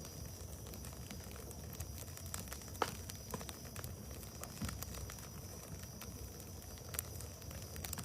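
Wood bonfire burning and crackling, with scattered sharp pops, the loudest about three seconds in.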